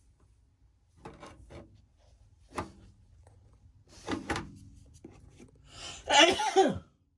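A few light knocks, then a man's harsh coughing fit near the end.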